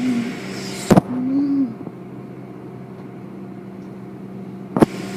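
Steady mechanical hum of car wash equipment running, broken by two sharp clicks, one about a second in and one near the end. Two brief low voice-like sounds come early on.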